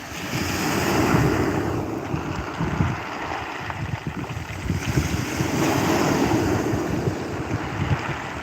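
Ocean waves breaking and washing up a beach, surging twice, with wind gusting on the microphone.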